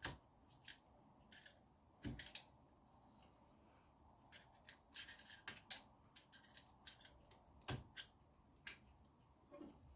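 Faint clicks, scrapes and a few light knocks as small metal parts of a motorcycle's upside-down front fork are handled and fitted by hand.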